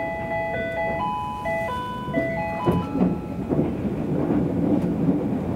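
A train's onboard chime plays a short melody of bell-like notes over the running noise of the train, ending about two and a half seconds in. The train then runs on, with clacks from the wheels passing over rail joints.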